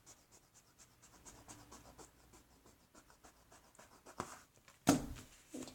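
Faint, rapid scratching on paper, with two louder sharp rustles of paper being handled about four and five seconds in.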